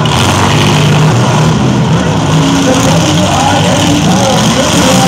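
Several demolition derby stock cars' engines running and revving together, rising and falling in pitch, with crowd voices mixed in.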